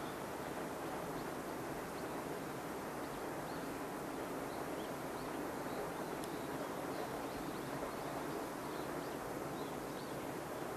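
Distant freight train of container wagons rolling past: a steady, even rumble of wheels on rails, with faint high chirps scattered over it.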